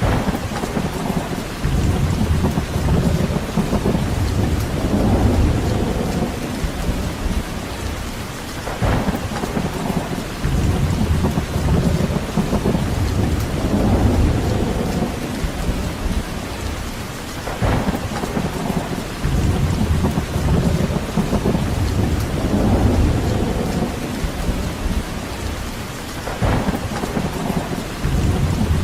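Steady heavy rain with low rumbling swells rising and falling every few seconds, the whole pattern repeating about every nine seconds.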